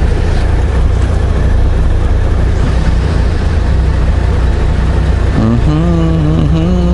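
Honda Gold Wing motorcycle engine idling with a steady low rumble. About five and a half seconds in, a steady droning tone joins it.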